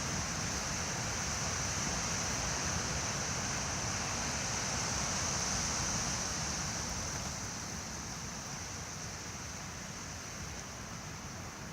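Strong night wind rushing steadily, recorded on a voice recorder; it eases off a little in the second half.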